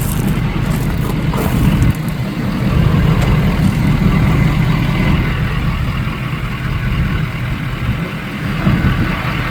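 Ford F550 truck's engine idling steadily with a low, even rumble.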